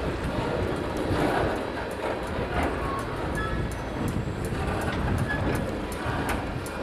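Freight train of tank cars rolling slowly, with a low rumble and scattered clicks of steel wheels over rail joints.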